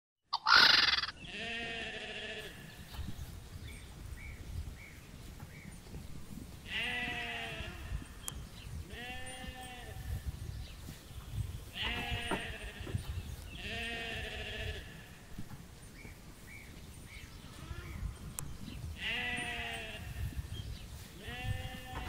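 Sheep bleating repeatedly: about seven wavering calls, each around a second long, coming singly and in pairs. A short, loud noise comes just before them, about half a second in.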